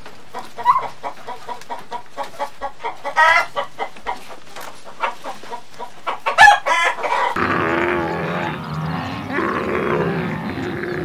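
Domestic hen clucking in a quick run of short clucks, with a longer pitched call about three seconds in and a loud squawk about six and a half seconds in. At about seven seconds the clucking gives way to a fuller, steady background sound.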